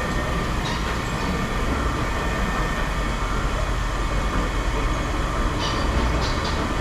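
Steady low engine rumble from machinery running, with a few light clicks near the end.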